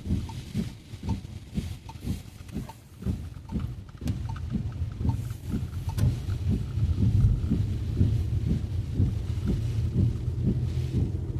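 A car driving in heavy rain, heard from inside: a steady low road-and-engine rumble with a run of short knocks about twice a second.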